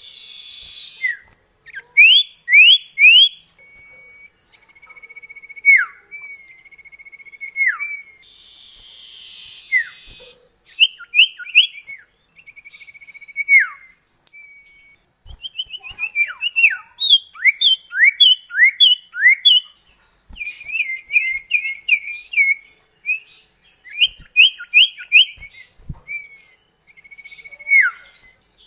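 Common iora (cipoh kacat) singing continuously as a duet: quick sharply down-slurred whistles, long held whistled notes, rapid chattering runs and a couple of harsh rasping calls.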